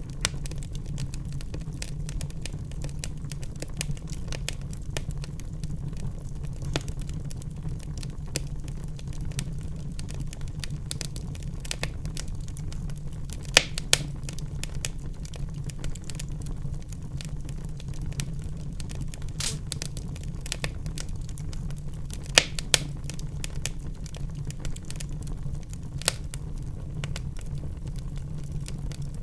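Wood fire burning in a fireplace: a steady low rumble with frequent small crackles and a few louder pops, about halfway through and again a little later.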